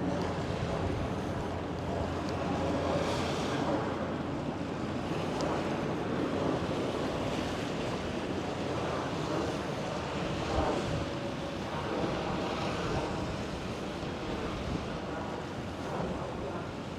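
Steady outdoor wind noise with no single clear event.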